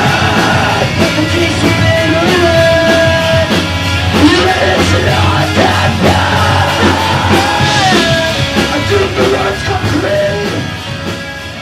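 Rock music with a vocal line, fading down near the end.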